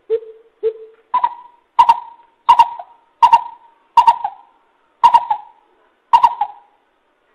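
Coucal (bubut) calling a series of deep hoots: two lower notes, then seven higher ones at a steady pitch, about one and a half a second, slowing slightly near the end.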